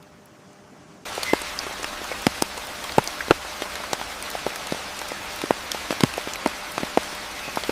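Rain falling steadily, with heavy individual drops striking close by in irregular sharp taps. It starts abruptly about a second in.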